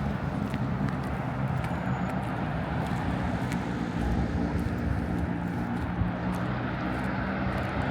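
Steady low mechanical drone of city background noise, with a few faint clicks.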